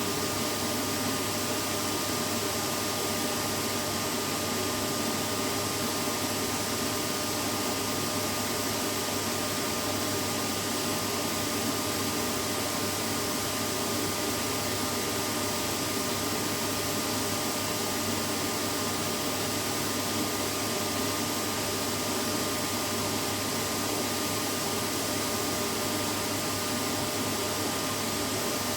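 Vacuum cleaner running: a steady, unchanging rush of noise with a faint motor hum, played continuously as white noise to soothe a baby to sleep.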